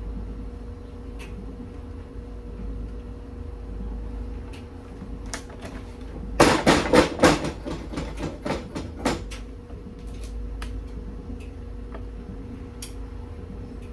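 Kitchen clatter: a quick run of sharp knocks and rattles about six seconds in, with a few lone clicks before and after, over a steady hum.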